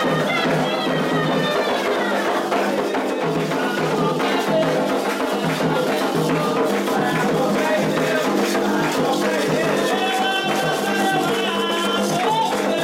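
Candomblé ritual music: atabaque hand drums played in a dense, steady rhythm with a shaker rattle, and voices singing over it.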